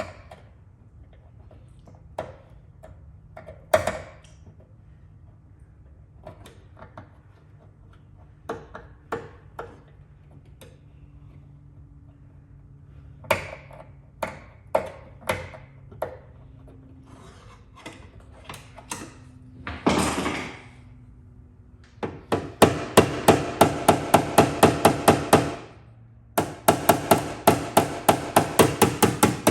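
Paintless dent repair tapping on a vehicle's sheet-metal panel with a tap-down tool and small hammer: scattered single taps at first, then two runs of rapid, even strikes at about five a second, knocking down high spots to finish the dent repair. A short rushing noise comes about twenty seconds in.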